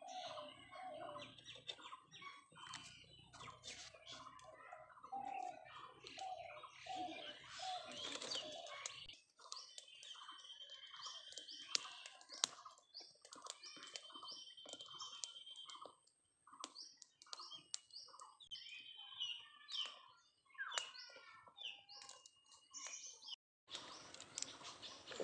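Birds chirping and calling, with high trills repeated several times from about ten seconds in, and scattered sharp clicks.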